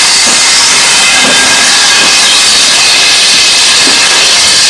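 Steam locomotive venting steam: a loud, steady hiss that does not let up.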